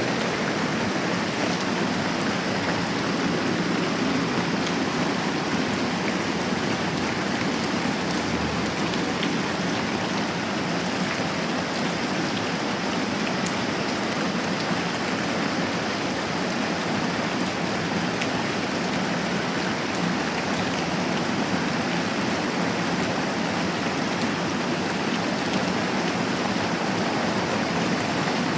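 Moderate rain falling steadily, an even, unbroken hiss of rain.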